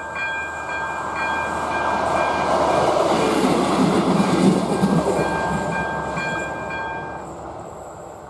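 ČD class 814 RegioNova diesel railcar passing over a level crossing, growing loud with engine rumble and wheel noise about 3 to 5 seconds in, then fading away. Throughout, the crossing's electronic warning bell rings steadily and falls silent about seven seconds in.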